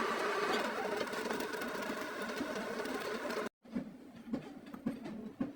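A machine running steadily until an abrupt cut about three and a half seconds in, followed by a quieter stretch of scattered light knocks.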